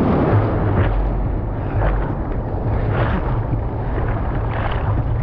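Steady roar of wind buffeting the microphone over the rush of ocean surf, with heavy low rumble.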